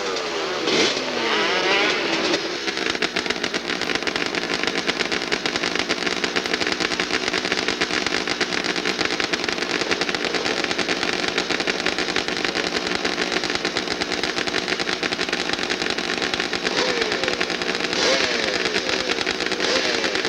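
Motorcycle engine revving up and down, then running steadily at a fast, even beat, with a few short rises and falls in pitch near the end.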